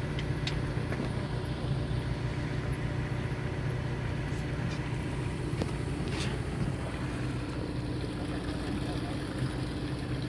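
A fishing boat's engine running in a steady low hum, with a few faint clicks over it.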